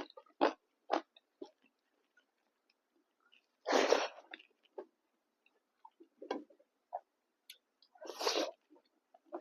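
Close-miked eating of pork fry with rice: a few wet chews about twice a second at the start, then two short, loud breathy bursts, one about four seconds in and one about eight seconds in, with small mouth clicks between them.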